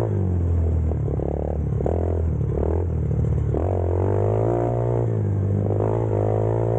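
X-Pro Storm motorcycle engine running, its pitch rising and falling several times as the revs change.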